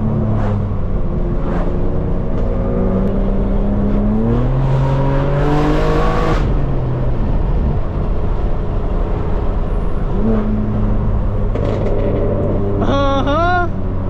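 Straight-piped BMW M4 Competition exhaust under hard driving: the engine note climbs steeply for a couple of seconds about halfway through, drops back with a gear change, then drones steadily. Near the end there is a brief high wavering squeal.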